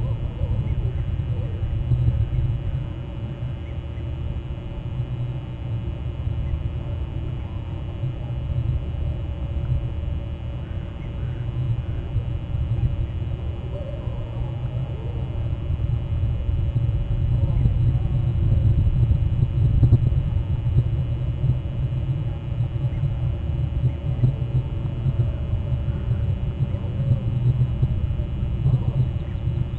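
A steady low rumble, with faint, scattered short bird calls above it.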